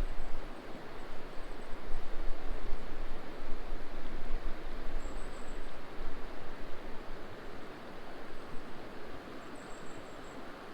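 River water rushing steadily, an even noisy rush that eases slightly in the second half.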